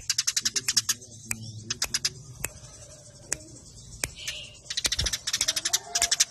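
Eurasian tree sparrows chattering in fighting calls: rapid, dense runs of sharp high chirps, about ten a second. A run at the start breaks into scattered chirps, a quieter gap follows, and a fresh fast run starts about five seconds in.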